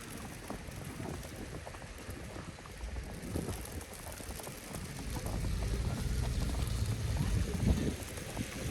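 Strong wind buffeting the microphone as a low rumble over a steady hiss, swelling in gusts from about halfway through.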